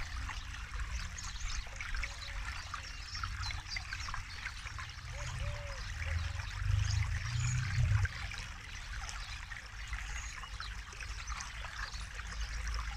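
Forest river flowing and trickling over stones: a steady splashing wash with a low rumble that swells about six to eight seconds in.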